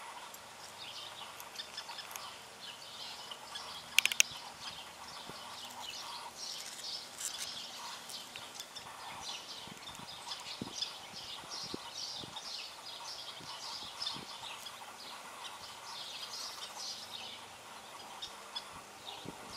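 Small birds chirping, many short quick calls overlapping throughout, with a double click about four seconds in.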